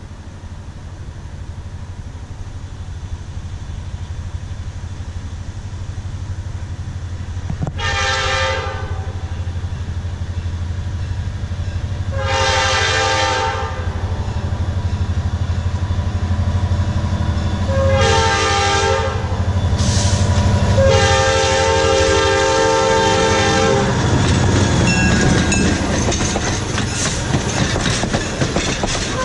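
EMD GP35 diesel locomotive working upgrade, its engine rumble growing louder as it approaches. It sounds its multi-tone air horn in the long, long, short, long grade-crossing signal. In the last few seconds the wheels clatter over the rail as it passes close.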